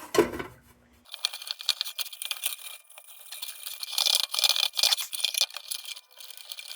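Steel wool scrubbing on the sheet metal of a lantern, a continuous scratchy rasping with small clicks that is heaviest about four to five seconds in. A brief knock comes right at the start.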